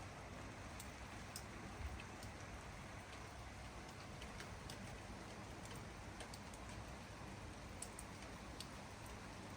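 Light rain falling steadily, with irregular single drops ticking sharply over the soft patter.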